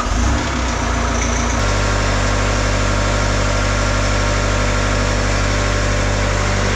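Bobcat T66 compact track loader's diesel engine just after a cold start, settling about a second and a half in into a steady idle as it warms up.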